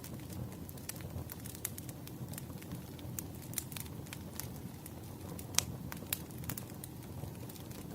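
Wood fire crackling: irregular sharp pops and snaps over a low, steady rumble, with one louder pop a little past the middle.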